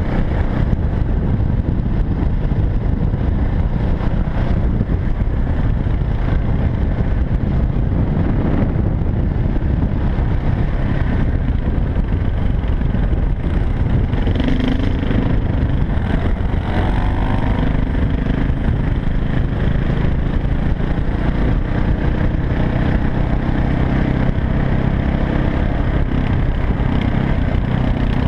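Dirt bike engine running steadily as the bike rides along a trail.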